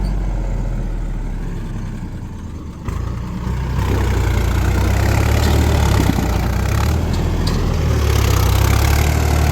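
Heavy diesel machinery engine running, easing off slightly and then picking up and running louder and harder from about three seconds in.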